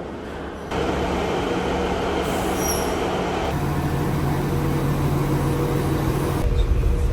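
Passenger train running, a steady rumble with a low hum that drops slightly in pitch about halfway through.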